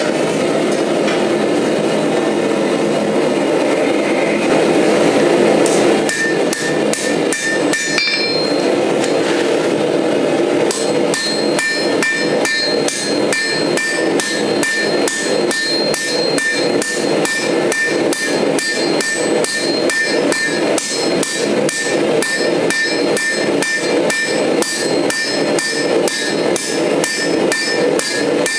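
A steady forge roar, then from about six seconds in a hammer striking steel on an anvil in a quick, even rhythm of roughly two to three blows a second, each blow ringing. The forge keeps roaring underneath.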